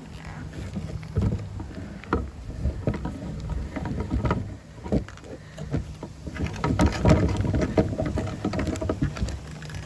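Meat grinder running with soap being forced through it: a low motor hum under irregular crunching and knocking, busiest a little past the middle.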